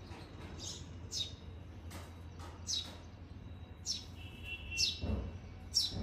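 A fledgling bird chirping repeatedly, its short, high chirps sliding downward, roughly one every half second to a second, with a brief steady whistle a little past four seconds in. Its calls are taken for a sign that it is hungry.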